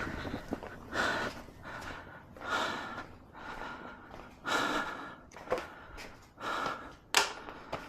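A person breathing heavily and audibly, about one breath every two seconds, with a short sharp click or squeak about seven seconds in.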